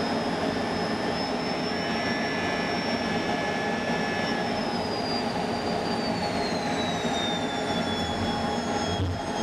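Fighter jet engines running with a steady roar and a high whine; about halfway through, the whine drops steadily in pitch.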